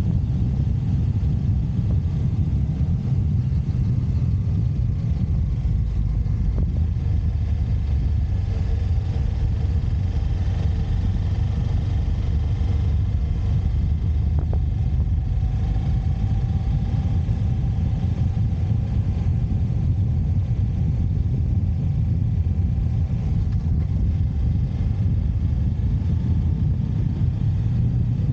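Steady low rumble of a motorcycle being ridden on the road: engine and road noise heard by a camera on the bike, with a faint engine tone above.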